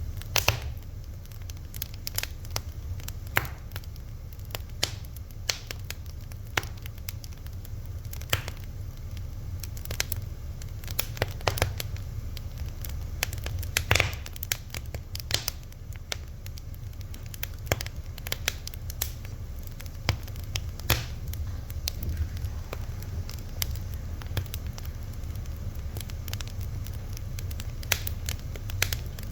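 A fire crackling steadily, with irregular sharp pops and snaps over a low steady rumble.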